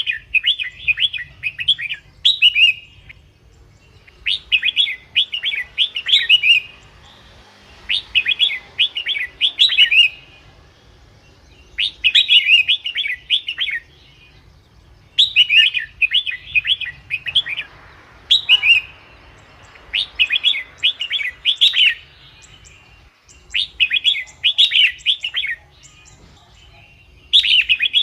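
Red-whiskered bulbul singing: short, rapid phrases of about one to two seconds, repeated every three to four seconds.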